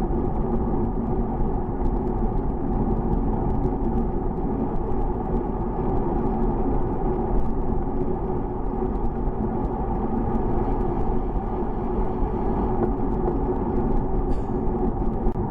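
Steady low rumble of wind and road noise while riding a bicycle, with a brief high chirp near the end.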